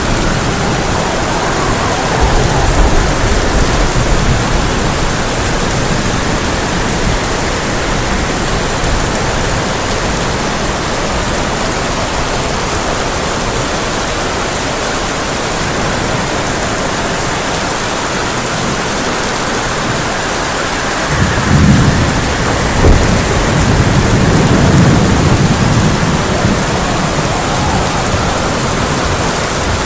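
Heavy rain falling on a tin roof as a steady hiss, with thunder: a low rumble in the first few seconds, then a louder rolling rumble with a sharp crack about two-thirds of the way through.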